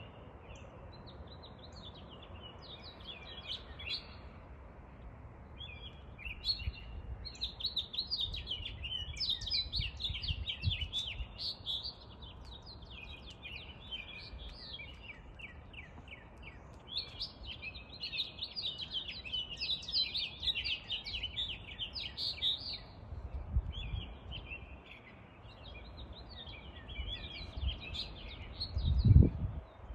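Many small birds chirping and twittering in dense, rapid bouts, over a low rumble. A loud low thump comes near the end.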